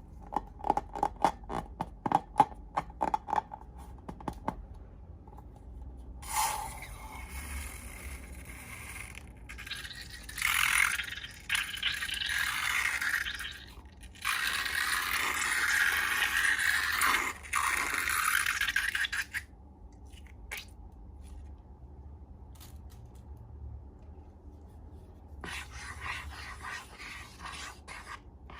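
Slime-making handling sounds: a quick run of small clicks and taps, then long stretches of scraping and rubbing as material is worked in a container.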